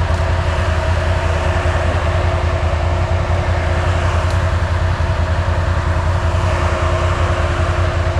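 ATV engine running steadily without revving, a constant low hum with a steady higher tone above it.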